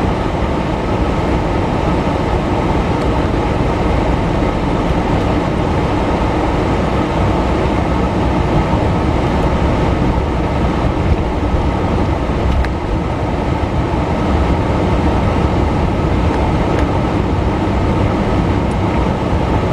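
Steady rumble of road and wind noise inside a moving car's cabin.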